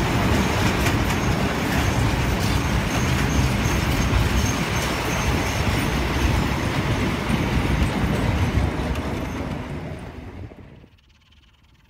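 Freight train of tank wagons rolling past with steady wheel-and-rail rumble and occasional clicks over rail joints, then its diesel locomotive at the rear going by. The sound fades out near the end.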